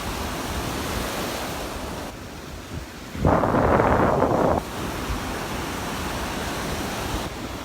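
Gulf surf washing on the shore under wind buffeting the microphone, with one louder rush about three seconds in that lasts over a second.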